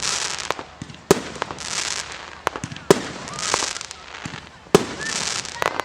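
Aerial fireworks bursting: four sharp bangs, roughly one every two seconds, each followed by a spell of crackling hiss as the shells' stars burn out.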